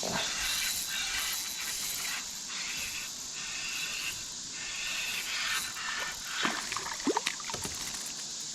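Steady hiss of flowing river water around a kayak, with a few light knocks or splashes a little past halfway.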